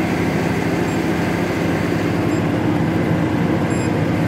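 Steady low rumble and hum of a train standing at the station platform with its engine running.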